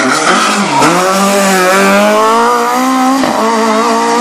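BMW E30 rally car engine at full throttle, accelerating hard with its pitch rising steadily. About three seconds in there is a brief break, as at a gear change, and then it climbs again.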